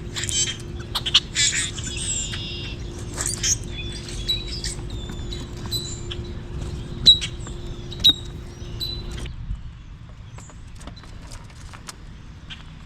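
Backyard birds chirping and calling in short, quick notes, with sharp clicks among them. About nine seconds in, the sound changes abruptly to a quieter background with only faint clicks.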